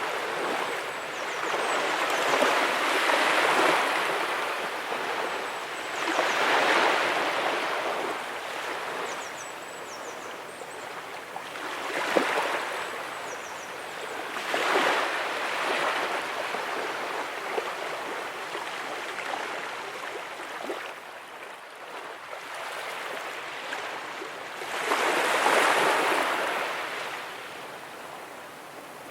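Ocean waves breaking and washing up on a beach, with a surge of surf every few seconds between quieter stretches of wash. The loudest surge comes near the end.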